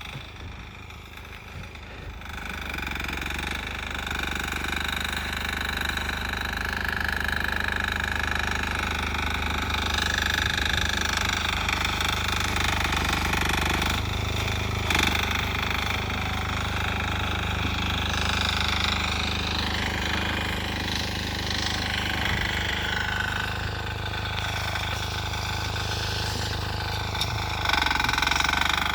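Sears Suburban garden tractor's 6 hp single-cylinder diesel engine running steadily with a hard, knocking diesel note. It grows louder over the first few seconds, then holds.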